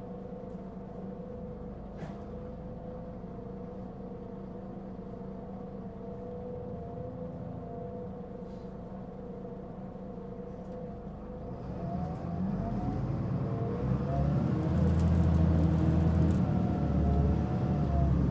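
Mitsubishi Fuso Aerostar LKG-MP37FK city bus's diesel engine idling steadily, heard from inside the bus. About twelve seconds in it pulls away under hard throttle, growing much louder with rising whines. This bus was giving off a pronounced abnormal running noise.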